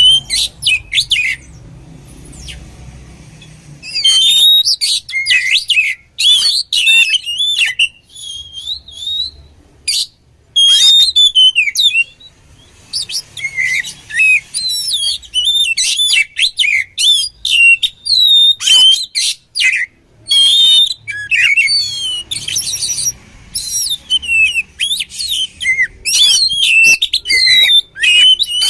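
Oriental magpie-robin singing a fast, varied run of whistles and chattering phrases in bursts, with short pauses between them.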